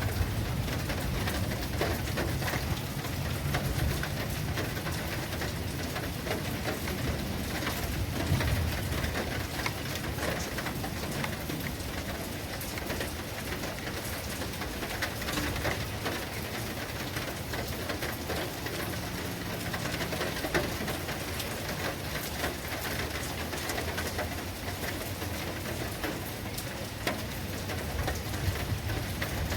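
Steady storm rain falling, with many small drop hits over an even hiss and a low rumble underneath.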